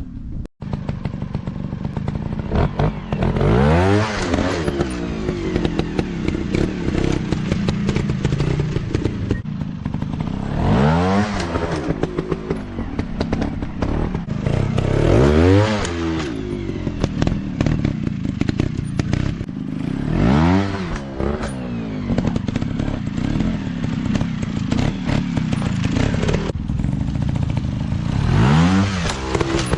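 Dirt bike engine revving up and easing off again and again: about five rising-and-falling surges, with steady engine running between them.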